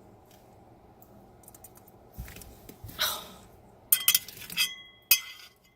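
Several sharp clinks of a dish being handled and set down, a couple of them ringing briefly, with a short hiss-like sound about three seconds in.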